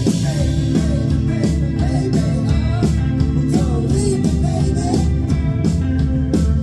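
A live indie rock band playing: electric guitar, bass and drums with a steady beat.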